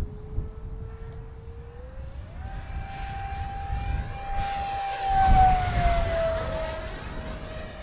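70mm electric ducted fan of an RC jet whining: the pitch steps up as the throttle is opened about two seconds in, then the jet passes close by, loudest about five seconds in, with the whine sliding down in pitch as it goes away.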